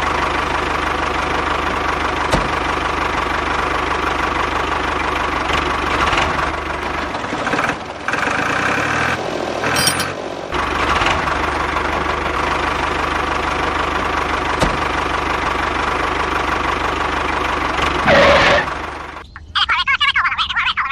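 Tractor engine running steadily, with a short change in its sound about eight seconds in. Near the end it cuts off suddenly, and a short chiming jingle begins.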